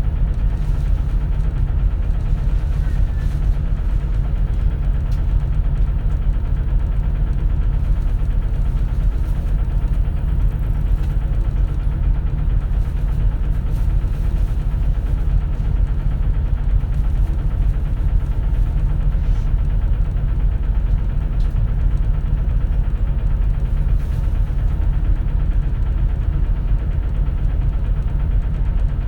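A 2004 CNG (compressed natural gas) city bus's engine running steadily, a constant low rumble heard from inside the passenger cabin.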